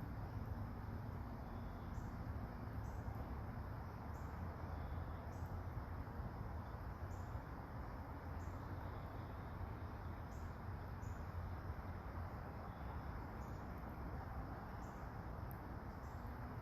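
Soft autumn rain falling steadily, with short high-pitched chirps about once every second or so.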